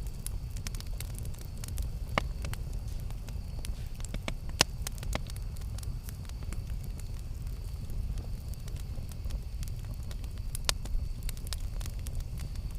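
Campfire burning with a steady low rumble and frequent sharp crackles and pops of burning wood, a few louder pops standing out.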